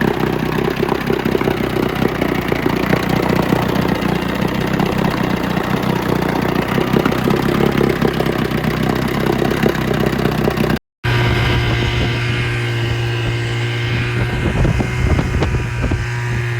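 Two-stroke outboard motor running, rough and uneven at first. After a short break about eleven seconds in, it runs on at a steadier, even note.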